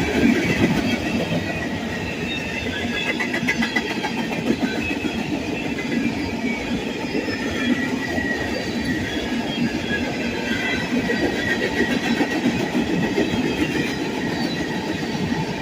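Freight train cars, covered hoppers among them, rolling steadily past on the rails with a continuous wheel rumble and thin high-pitched wheel squeals.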